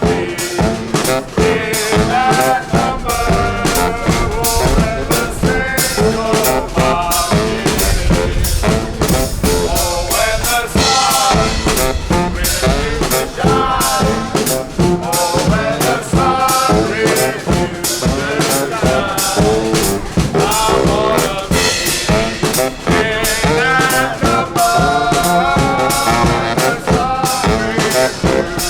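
Live band playing an instrumental tune, with a drum kit keeping a steady beat under a melody line.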